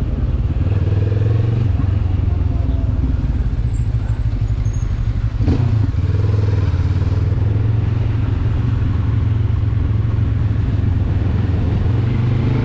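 Benelli TRK 702 parallel-twin motorcycle engine running steadily while riding, with steady road and wind rush. There is one short knock about five and a half seconds in.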